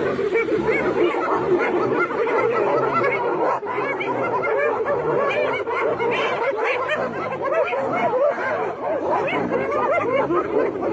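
A dense, unbroken chorus of many animals calling at once, short overlapping chirping and yelping calls.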